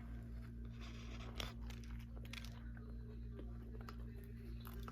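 A person chewing and crunching a mouthful of Subway sandwich, with a few sharper crunches, over a steady low hum.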